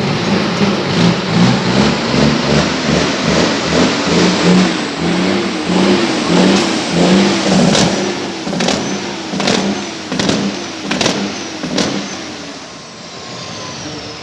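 Truck engine revved hard again and again, its pitch rising and falling in quick blips. About halfway in, a string of sharp cracks joins the revving, and the engine settles down near the end.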